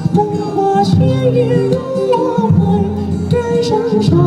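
A singer performing a song over musical accompaniment, with long held notes.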